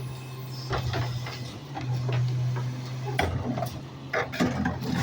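Rear-loader garbage truck's engine running with a steady low hum, under scattered knocks and rattles; the hum shifts about three seconds in.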